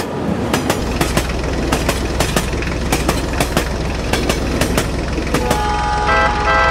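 Train running: wheels clicking over rail joints about two or three times a second over a steady low hum, with a horn sounding near the end.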